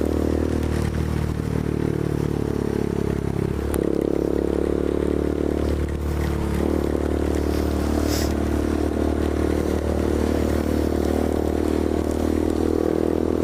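Yamaha Fazer 250 motorcycle's single-cylinder engine running under way, its note changing about 4 and 6.5 seconds in, with a steady rush of air over the microphone.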